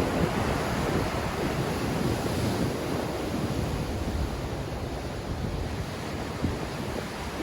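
Sea surf washing ashore in a strong wind, with wind buffeting the microphone. It is a steady rush that eases slightly after the first few seconds.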